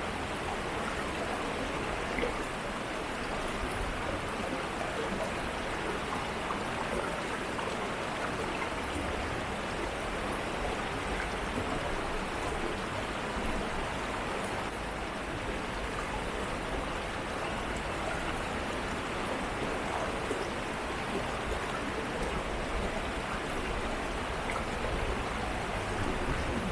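Shallow urban stream flowing steadily, an even rush of water with small splashes and gurgles.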